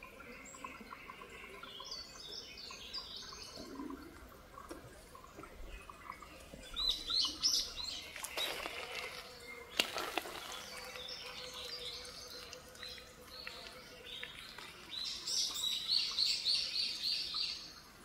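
Small birds chirping in quick runs of high notes, the longest run near the end. Two brief rustling noises stand out near the middle.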